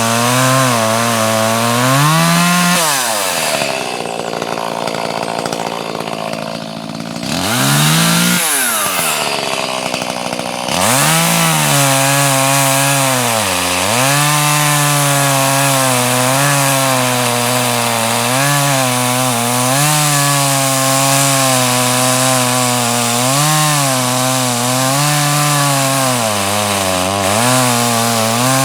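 Chainsaw cutting wood, its engine pitch wavering as it labours through the cut. About three seconds in it drops to a lower, quieter speed for several seconds, then revs back up and carries on cutting, with another brief dip partway through.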